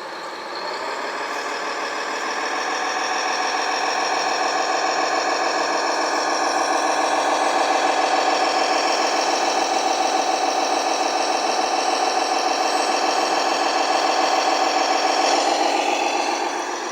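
Simulated diesel engine sound from a radio-controlled model truck or digger's sound module, played through a small speaker with no deep bass. It revs up over the first couple of seconds, holds a steady, pulsing run, and falls away near the end.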